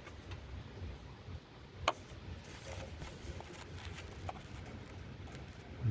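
Hyundai Accent engine idling as a low steady hum, with one sharp click about two seconds in and a few faint ticks.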